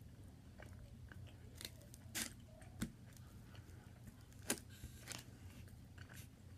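Close-up chewing of steak, with scattered short sharp clicks and smacks, the loudest about four and a half seconds in.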